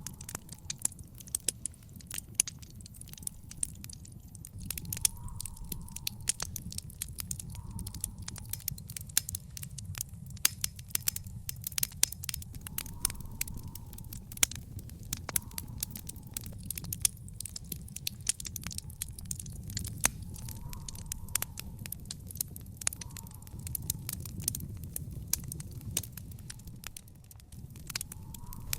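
Wood fire in an outdoor fire pit crackling: dense, irregular sharp pops and snaps over a low, steady rumble.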